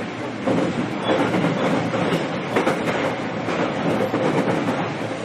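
Running sound inside a JR East EV-E801 battery electric multiple unit under way: continuous rumble of wheels on rail, with irregular clacks and knocks from the track and a faint steady tone.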